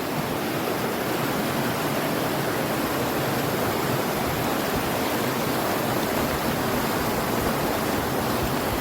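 Creek water rushing steadily, an even hiss with no change in level.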